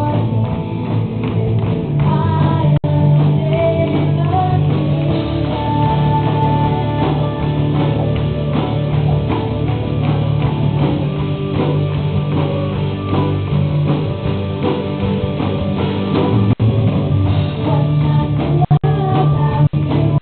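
Live rock band playing a worship song: drum kit, guitars and bass, with singing over it.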